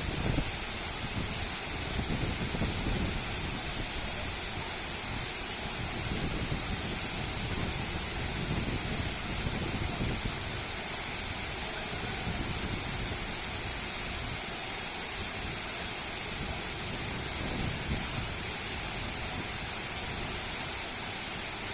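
Waterfall rushing steadily, a continuous hiss of falling water over an uneven, surging low rumble.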